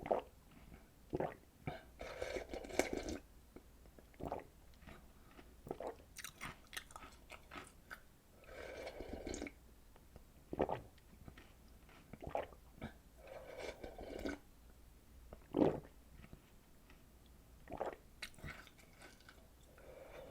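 Close-miked eating of chocolate snacks and cereal soaked in milk: sharp crunching bites every second or two, the loudest about three-quarters of the way through, with softer wet chewing between them.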